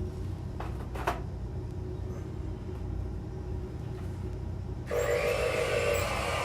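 Two short clicks over a low steady hum, then about five seconds in an RC construction machine's small electric motor starts suddenly, running with a whirring whine.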